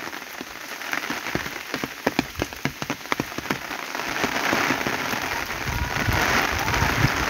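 Heavy tropical rain: separate drops patter close by for the first few seconds, then the downpour's steady hiss grows louder, with a low rumble underneath near the end.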